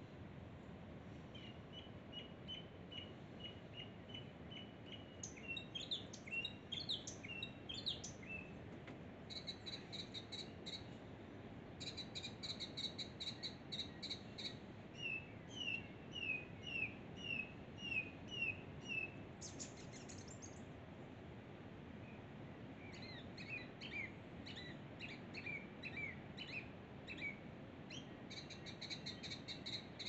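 Birds singing and calling in the treetops: runs of short repeated chirps and quick slurred whistles in clusters, with brief pauses, over a steady low background rush.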